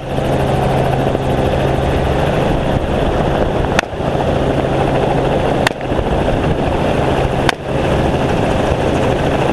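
Helicopter engine and rotor noise, a loud steady hum and rush, broken by a few brief sharp clicks about two seconds apart.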